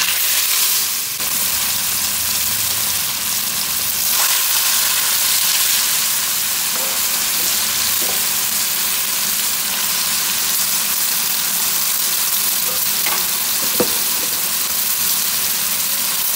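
Grated carrots frying in hot oil in a metal kadhai: a loud, steady sizzle that starts suddenly as the carrots go into the oil, with a few light clicks and scrapes of a steel spoon stirring them.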